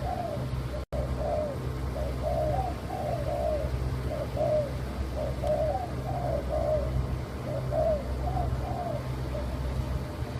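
Spotted dove (tekukur) of the white leopard colour morph cooing, a string of short arched coo notes in repeated phrases, over a steady low hum.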